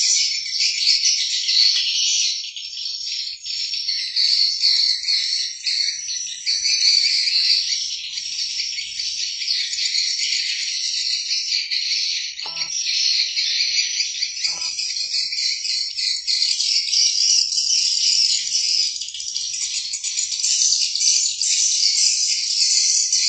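A dense, unbroken chorus of high-pitched chirping and trilling, with a couple of soft knocks about halfway through.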